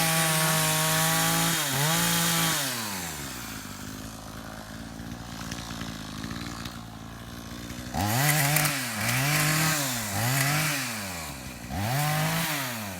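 Two-stroke chainsaw engine revving: it is held at high speed for about two seconds, then given a short rev. It idles for several seconds, then is blipped in four quick revs near the end.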